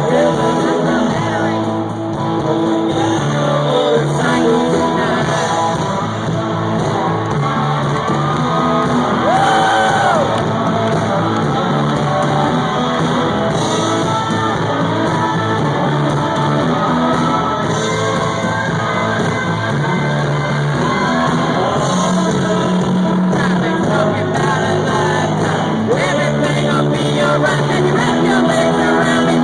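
Live band playing a country-rock song, with a male lead vocal over guitars, heard through a phone's microphone in a large hall.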